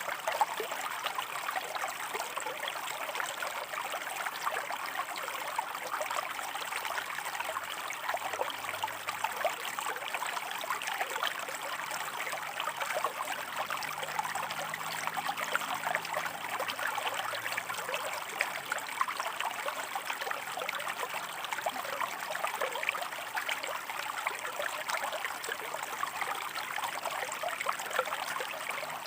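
Shallow river water running and splashing over rocks: a steady babbling with fine trickling detail throughout.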